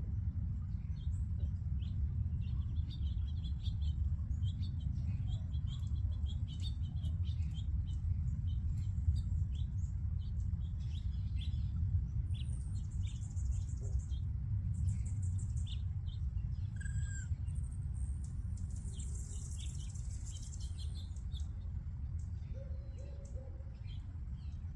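A flock of small seed-eating birds chirping together: many short, high chirps throughout, with buzzy higher trills about halfway and again near the end. A steady low rumble runs underneath.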